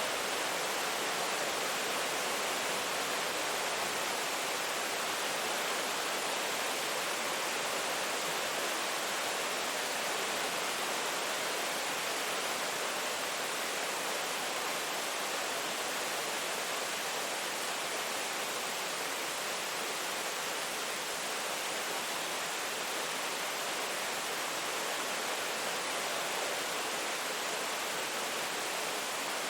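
Steady rain, an even unbroken hiss with no single drops or thunder standing out.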